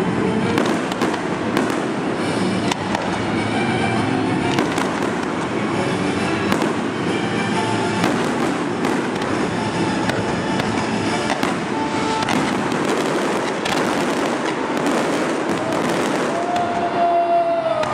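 Fireworks display: shells bursting overhead in a dense, continuous run of bangs and crackling.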